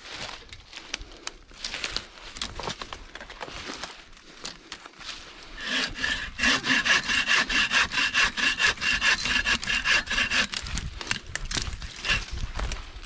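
Hand saw cutting through wood: faint, irregular scraping for the first few seconds, then about five seconds of fast, louder back-and-forth strokes with a steady high tone running through them, easing off near the end.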